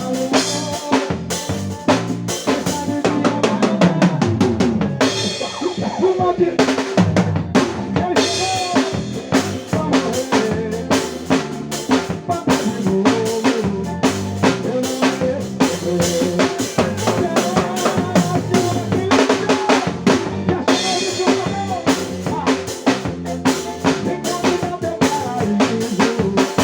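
Drum kit played along to a recorded forró song, with steady bass drum and snare strokes and rimshots over the track's melody.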